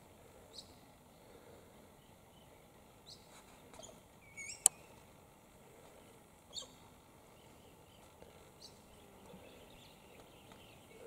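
Faint, scattered short high bird chirps every second or two, with one sharp click about halfway through that is the loudest sound.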